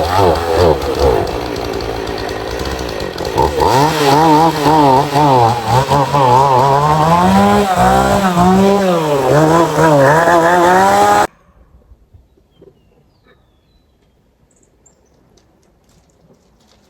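Chainsaw running and cutting tree limbs, its engine revving up and down over and over as it works. It cuts off suddenly about eleven seconds in, leaving only faint background sound.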